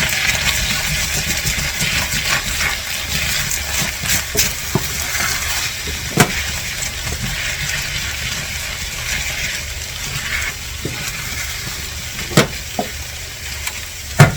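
Chive pancake batter frying in a pan, sizzling steadily with crackling ticks, and a few sharper taps about six and twelve seconds in.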